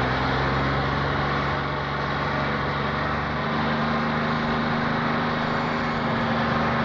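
Car engine sound effect running steadily at an even pitch, without revving.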